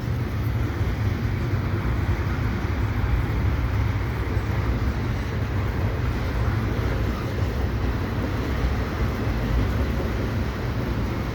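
Double-stack container train's cars rolling past, a steady low rumble of wheels on rail, mixed with the hiss of heavy rain.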